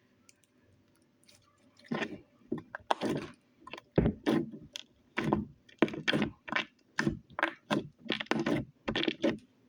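Slime being squeezed and worked in the hands: a rapid, irregular run of sharp wet pops and clicks, about two or three a second, starting about two seconds in.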